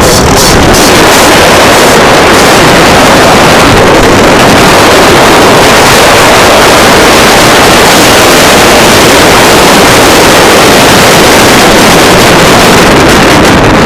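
Honda CR85 two-stroke dirt bike engine running hard, very loud and distorted on the phone microphone, mixed with wind noise.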